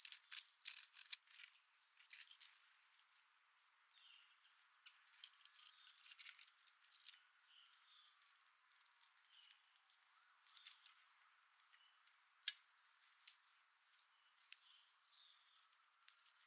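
Small songbirds calling with short, high, downward-sliding chirps every second or two, after a quick run of sharp taps in the first second.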